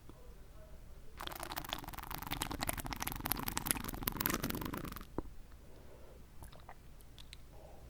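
Close-up slurping of water in the mouth: a dense crackling slurp lasting about four seconds, followed by a few faint, separate mouth clicks.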